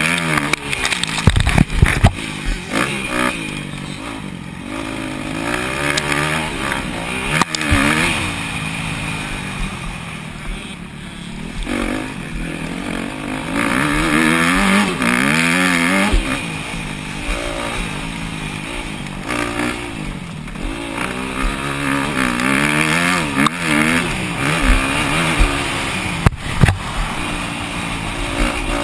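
250cc four-stroke motocross bike engines racing, revving up and dropping back again and again through the gears, with a few sharp knocks about two seconds in and near the end.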